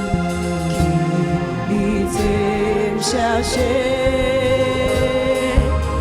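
Live gospel worship music: a church band playing under choir singing, with steady bass and cymbal hits.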